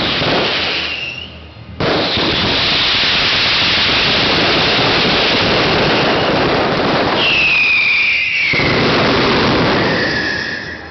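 Fireworks finale barrage: shells and firecrackers bursting so fast they merge into one continuous crackling din, after a brief lull about two seconds in. Falling whistles sound through it near the end before it dies away.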